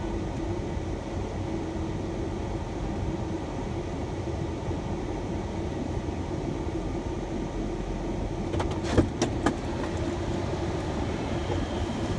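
Steady engine and road noise inside a moving shuttle van, with a steady low hum. A few sharp knocks about nine seconds in.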